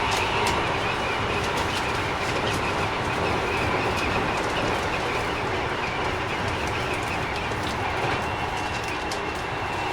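Keikyu 1000 series electric train at speed, heard from inside the car: steady rolling rumble of wheels on rail with sharp clicks from the track. This set's Mitsubishi IGBT inverter drive is a little noisier than other trainsets of the class.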